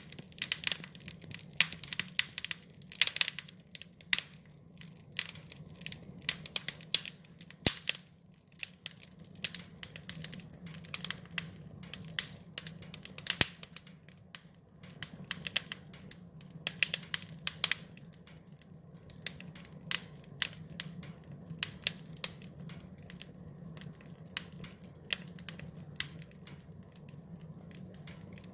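Wood fire crackling: irregular sharp pops and snaps, dense through most of the stretch and sparser near the end, over a low steady hum.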